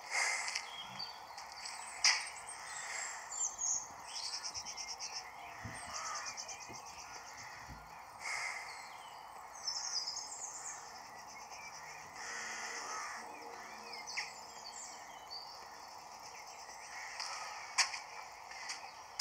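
Birds chirping over outdoor street ambience, with two rapid buzzy trills and a few sharp clicks.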